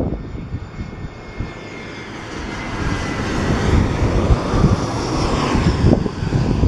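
EasyJet jet airliner coming in to land: its engine noise swells over several seconds, a rushing sound with a faint steady high tone, loudest near the end. Wind gusts on the microphone underneath.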